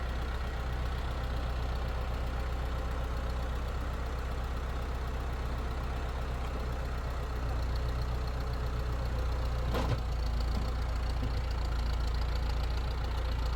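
A steady low engine rumble, a little louder from about halfway, with one short click near the end.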